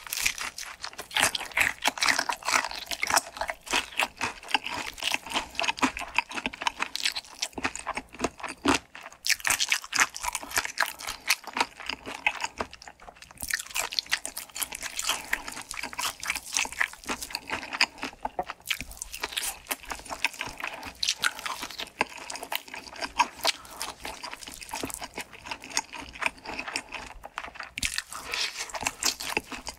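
Crispy fried chicken drumstick skin being bitten and chewed close to the microphone: dense crackling crunches throughout, with a few short pauses.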